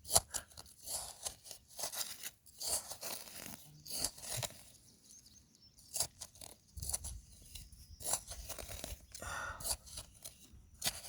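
Irregular crunching and scraping of dry soil and debris being dug through by hand, several sharp crunches a second, easing off briefly about halfway through.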